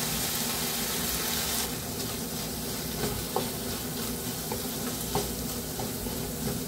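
Bottle gourd pieces sizzling gently in a kadhai as a wooden spatula stirs them in the coriander powder, with a few light taps of the spatula against the pan. The sizzle is brighter for the first second or two, then settles.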